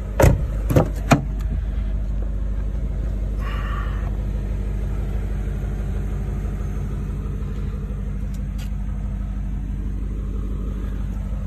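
BMW E39 M5's 4.9-litre S62 V8 idling steadily, with a few sharp knocks in the first second or so.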